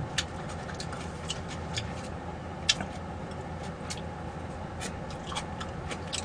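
A scattering of small, sharp clicks and taps at irregular intervals over a steady low background hum.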